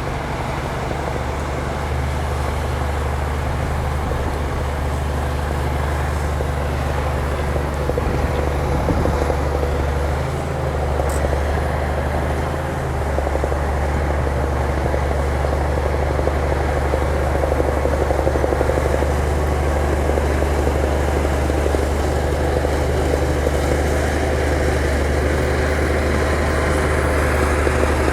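Heavy diesel engine of a bulldozer or similar earth-moving machine running steadily, a deep continuous drone that holds without a break.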